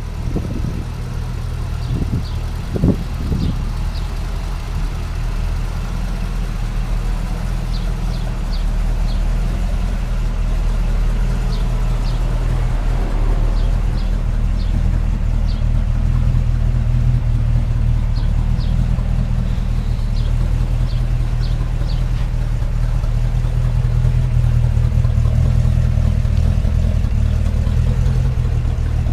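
1957 Chevy 3100 pickup's engine running steadily at a low, even pitch. There are a couple of knocks about three seconds in, and small groups of short high chirps now and then.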